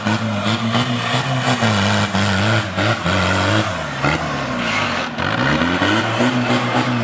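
Off-road 4x4's engine running hard, its pitch dipping and climbing back again about halfway through, with frequent short knocks and rattles over it.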